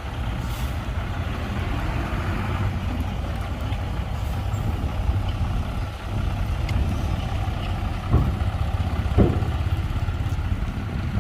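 Heavy diesel engine of earthmoving machinery running steadily with a low drone, with two sharp thumps about a second apart near the end.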